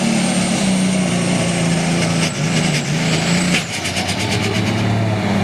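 Turbocharged alcohol-burning John Deere super stock pulling tractor engine revving with a high turbo whine, then a quick run of sharp pops about halfway through as the whine falls away. The engine is running rough, which the announcer suspects is out of timing rather than a turbo problem.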